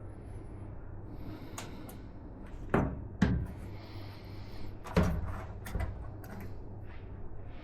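PC parts being handled during a build: three sharp knocks and a few lighter clicks of hard pieces meeting, with soft rustling between them.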